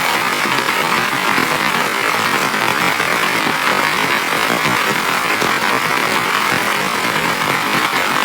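Heavy rain falling steadily, a dense even hiss with scattered drop patters.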